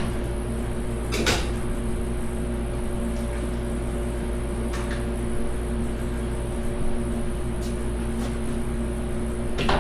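Steady mechanical hum with several fixed tones, broken a few times by short sharp clicks of hand tools on metal during an engine teardown.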